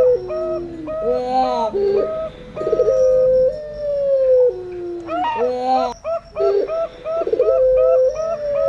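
Puter pelung dove and perkutut (zebra dove) cooing together. Quick short coo notes sound over a long drawn-out coo that slides slowly down in pitch, and the phrase repeats about every three and a half seconds.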